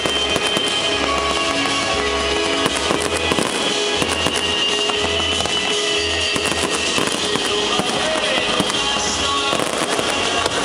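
Fireworks popping and crackling over loud show music with a pulsing bass beat.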